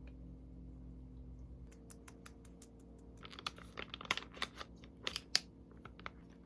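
Handling noise: a run of irregular sharp clicks and crinkles starting a little under two seconds in and growing busier and louder after about three seconds, over a steady low hum.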